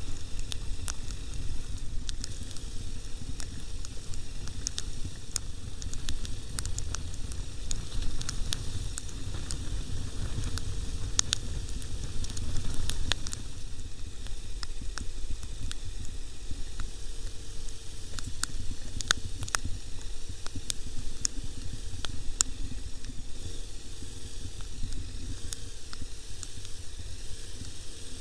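Wind buffeting a microphone, likely one mounted on a moving motorcycle: a steady low rumble with a hiss over it and frequent sharp crackles.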